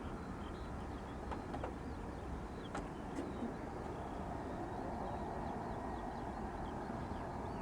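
Outdoor ambience: a steady low rumble with faint, scattered bird chirps and a few soft clicks.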